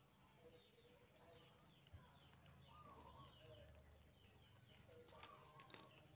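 Near silence, with faint bird chirps repeating in the background and a few wavering calls.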